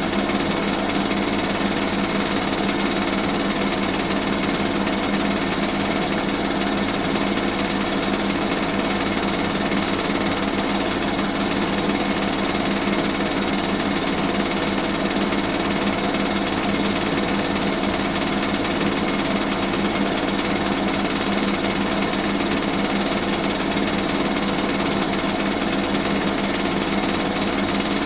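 Bosch WAN28220FF washing machine running on a synthetics 40 °C cycle: a steady motor and drum hum that keeps an even level without pauses.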